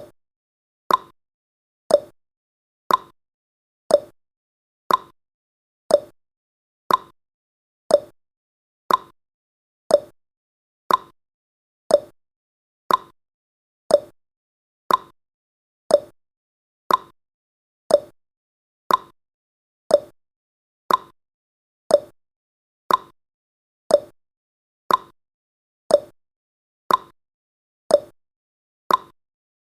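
Countdown timer's clock-tick sound effect, one sharp tick each second, marking off the final seconds before the alarm.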